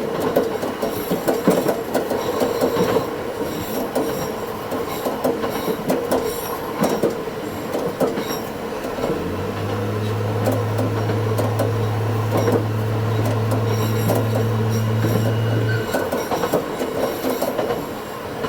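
Diesel railcar running along the track, heard sped up to double speed: steady running noise with frequent wheel clicks and knocks and faint high-pitched wheel squeal. A steady low hum comes in about nine seconds in and stops about six seconds later.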